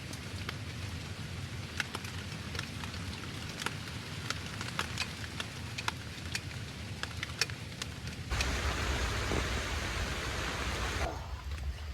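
Steady rain with individual drops tapping sharply close by. About eight seconds in it changes abruptly to a denser, louder hiss of rain for about three seconds.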